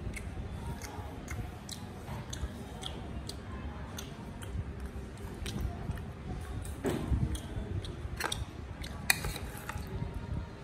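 Close-up chewing of small whole shrimp and rice, with many sharp, irregular clicks and crunches.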